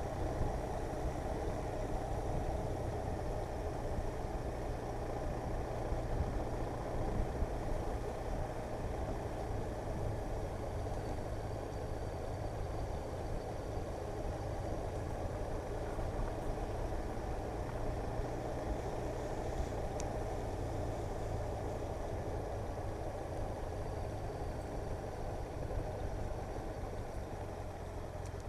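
Motorcycle being ridden at a steady pace on a gravelly road: a constant engine drone mixed with road noise.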